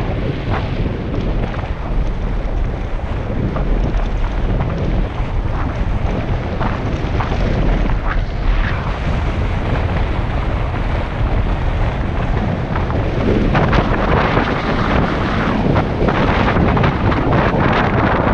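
Wind buffeting a helmet-mounted GoPro's microphone on a fast downhill bike ride, with the crunch and rattle of tyres and bike on a rough road. The rattling knocks grow louder in the second half.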